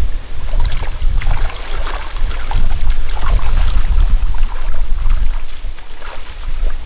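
Irregular splashing and sloshing in muddy water, over a steady low wind rumble on the microphone.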